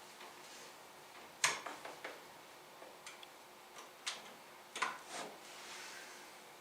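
Scattered sharp clicks and knocks of hard parts being handled, with the loudest about a second and a half in and just before five seconds in.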